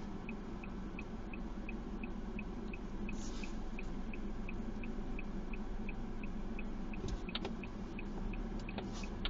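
Steady low hum with a faint, evenly spaced ticking about three times a second, and a couple of soft clicks near the end.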